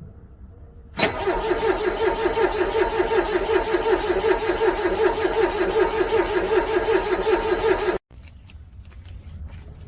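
Car engine being cranked by the starter motor in the cold, a steady pulsing churn for about seven seconds without catching, then cut off abruptly.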